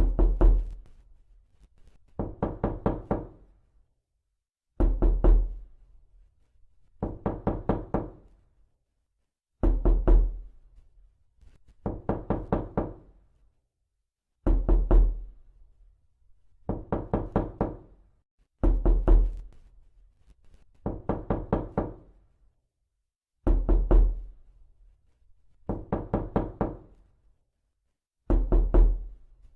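Knocking in quick bursts of four or five raps, a burst about every two seconds with silence between, repeating steadily.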